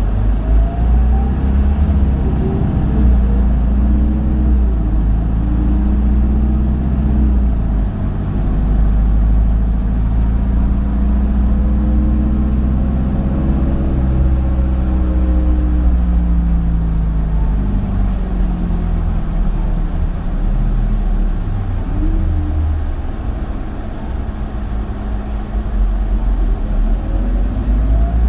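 Interior running sound of an Isuzu Erga (2RG-LV290N3) city bus, its four-cylinder turbo-diesel engine working under a low rumble. The engine note rises and falls several times as the bus accelerates and slows, climbing to a peak around the middle and dropping away after it.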